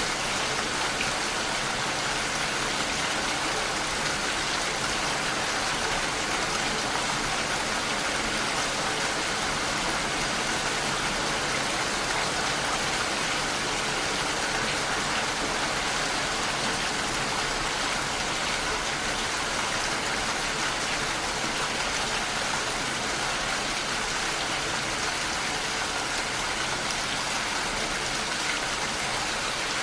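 Steady rain falling against a window pane, an even patter with no breaks.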